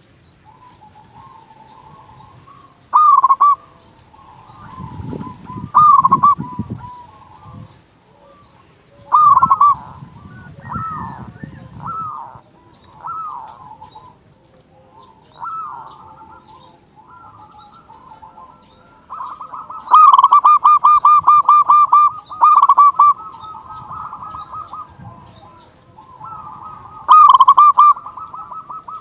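Zebra dove (perkutut) singing: loud short cooing phrases every few seconds with fainter calls between, then, past the middle, long runs of rapid pulsed cooing notes.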